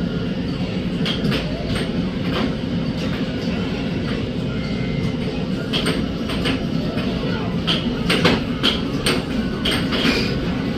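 Norfolk Southern freight train rolling past: a steady low rumble of the cars, with irregular clicks and knocks of wheels over the rail joints.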